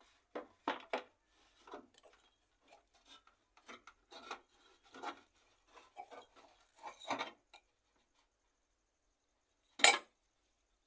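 Metal gas-stove parts being handled and shifted: irregular clinks, scrapes and rubbing, then a gap and one loud clank about ten seconds in.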